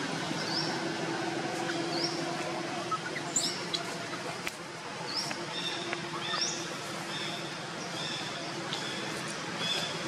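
A bird repeats a short, high rising chirp about once a second, over steady outdoor background noise with a faint low hum.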